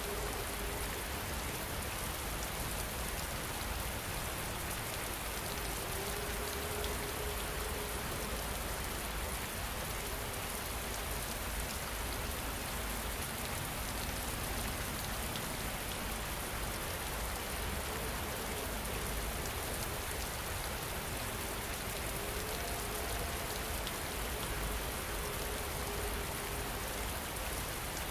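Steady rain falling, an even unbroken patter with no gusts or breaks. A faint, low held tone rises softly under it twice.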